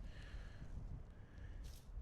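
Faint low rumble of wind buffeting the microphone, with a brief faint hiss near the end.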